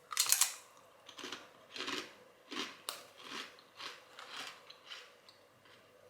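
A person chewing a mouthful of crisps, with a run of crunches about every half second that are loudest at the start and fade as the crisps break down.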